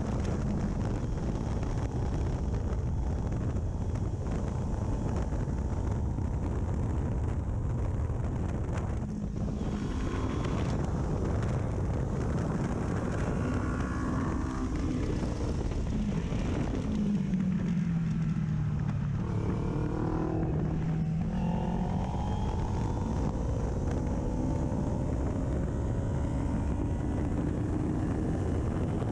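Kawasaki Ninja 400 parallel-twin engine on an aftermarket full exhaust, revving up and down through the gears at track speed, with heavy wind on the microphone. About two-thirds of the way in the revs drop low and then climb again.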